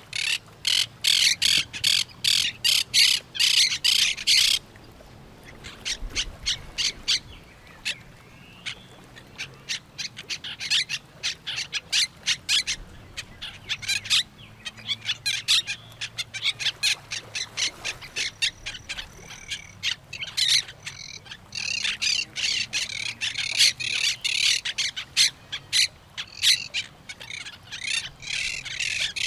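Parrots squawking, rapid harsh calls in long chattering runs, loudest at the start and again in the last third, with a quieter, sparser stretch between.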